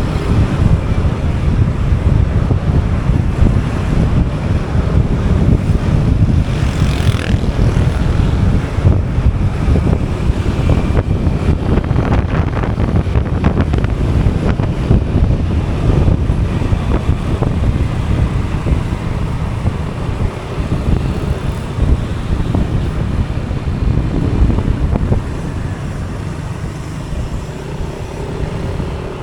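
Motorbike ride: wind buffeting the microphone over a running motorcycle engine and road traffic.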